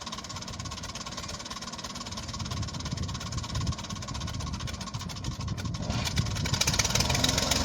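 Tractor diesel engine running steadily, getting louder about six seconds in.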